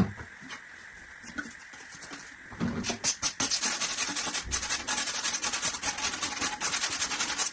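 Sandpaper rubbed quickly back and forth on the end of a plastic drain pipe, a scratchy rasping that starts a couple of seconds in. It roughens the surface for solvent cement.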